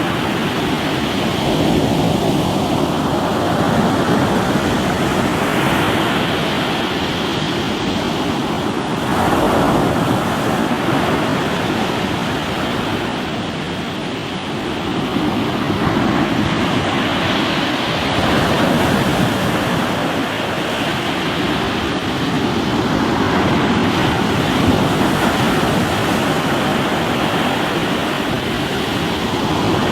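Sea waves breaking on a rocky shore: a continuous rush of surf that swells and eases every several seconds.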